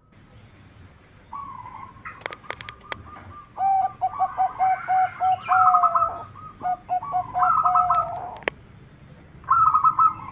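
Zebra doves (perkutut) cooing: quick runs of short, staccato coo notes, with more than one bird's notes overlapping, starting about three and a half seconds in and again near the end. A few sharp clicks come just before the cooing and once just after the main run.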